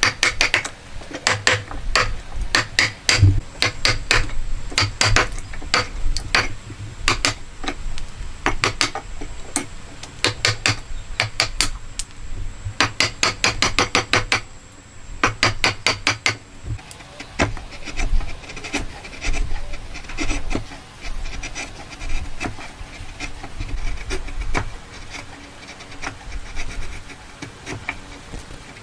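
Hand tools working wood: a rapid series of sharp knocks, several a second, like hammer or mallet strikes. About seventeen seconds in they give way to softer scraping and rubbing.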